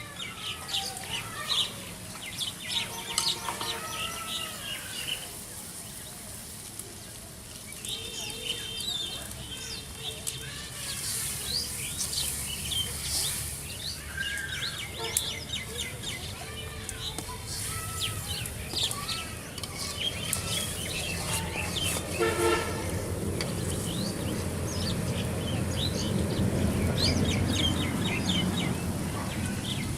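Birds chirping and calling repeatedly over a steady low hum that grows louder in the last third.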